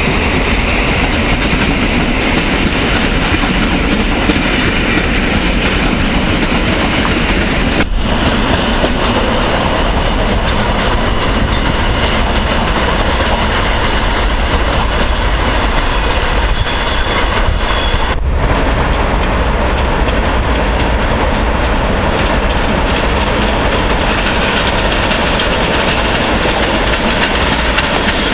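Electric trains passing on a station's tracks, their wheels clattering over rail joints with a steady rumble. A brief high wheel squeal comes a little past the middle.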